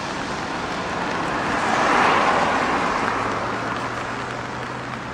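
A car passing close by on a wet road, its tyre hiss swelling to a peak about two seconds in and then fading away.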